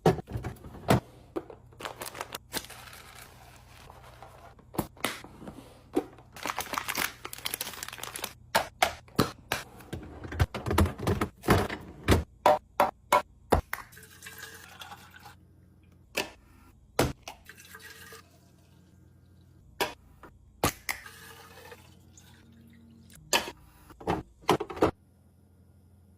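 Groceries being put into a fridge: a long run of sharp knocks and taps as containers and bottles are set down on the shelves, denser in the first half, with a few stretches of rustling packaging. A low steady hum runs underneath.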